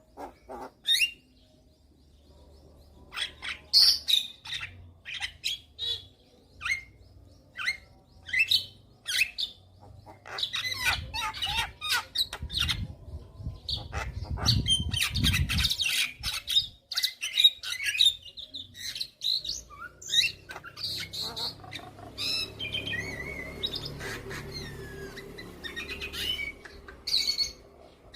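Javan myna (jalak kebo) in full song: a string of short, sharp calls, a dense run of rapid chatter in the middle, and thin gliding whistles near the end.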